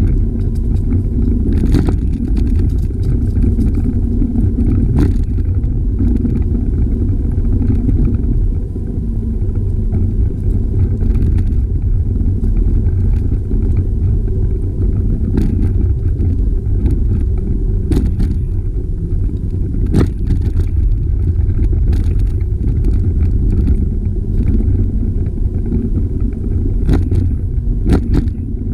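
Steady, loud rumble of wind buffeting a camera microphone on a moving bicycle, with scattered sharp clicks and knocks of the bike over the trail surface.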